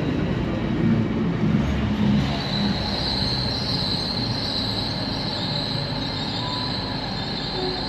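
Train running through a station with its wheels squealing on the rails: a low rumble at first, then a high, steady screech from about two seconds in.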